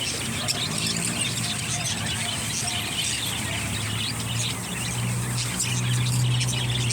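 Many small birds chirping in quick, overlapping short calls, over a steady low hum that grows louder in the second half.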